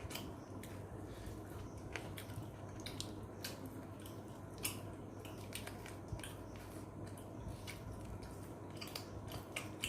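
Faint scattered clicks and taps at irregular intervals over a low steady hum, with a slightly louder click a little past the halfway mark.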